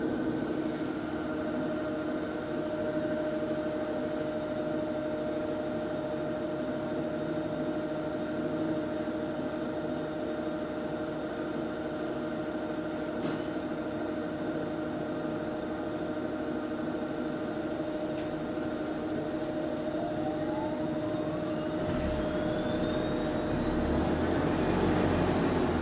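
Steady pitched whine of a bus's hydraulic cooling fan running over the engine. About twenty seconds in, a thinner whine rises in pitch, and the low engine rumble grows heavier and louder near the end.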